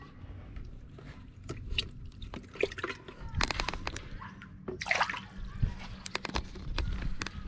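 Water sloshing and splashing with small drips as minnows are scooped by hand and dropped into the pond, with two louder splashes about three and a half and five seconds in.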